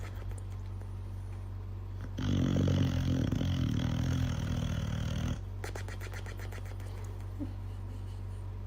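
A dog snoring, loudest in a stretch in the middle, over a steady low hum.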